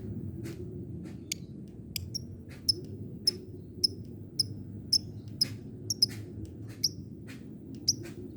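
Lovebird giving short, sharp ticking calls ('ngetik'), one or two a second at irregular spacing, over a low steady background hum.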